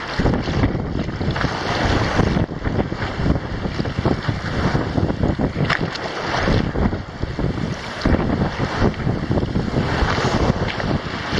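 Wind buffeting the microphone aboard a sailboat heeling under sail, over the rush of water past the hull, rising and falling in gusts.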